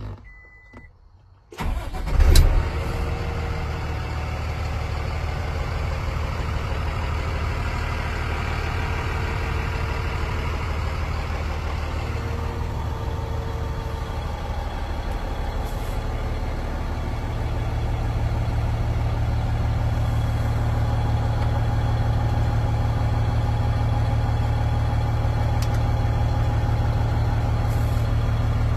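Hino L7 truck's 6.7 Cummins diesel cranking and catching about two seconds in, then idling steadily, heard from inside the cab. The idle note steps up slightly past the middle.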